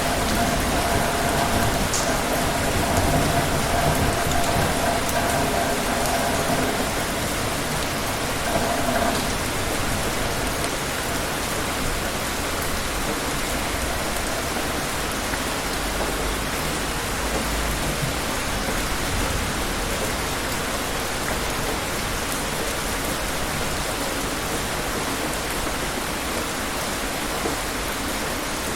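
Steady heavy rain falling, with a low distant thunder rumble about halfway through. For the first nine seconds or so a steady hum sits under the rain, then stops.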